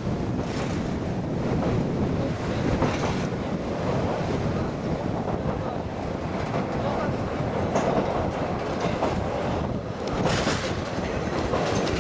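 Steady running noise heard from aboard an open-window trolley diesel railcar. The wheels clack over rail joints every few seconds against a continuous rumble and air rush.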